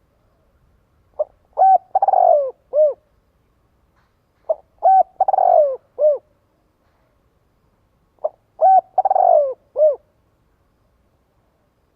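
Spotted dove cooing: three phrases a few seconds apart. Each phrase is a short note, then an arched coo, then a longer rolling coo that falls in pitch, and a final arched coo.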